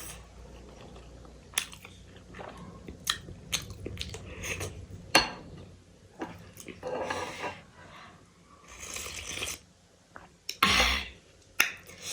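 Close-miked eating: crunchy food being bitten and chewed, with several sharp clicks of cutlery on a dish in the first half and longer spells of crunching chews in the second half.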